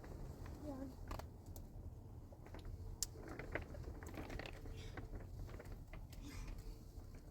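Scattered light clicks and taps, one sharper about three seconds in, over a steady low rumble, with faint voices now and then.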